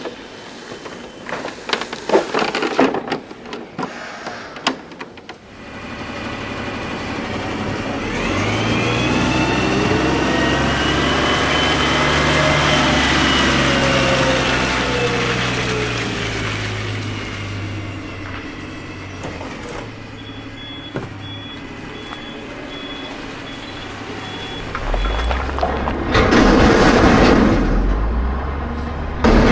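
Truck engine running, its pitch rising and then falling, with a steady high beeping for a few seconds later on and a louder rush of noise near the end.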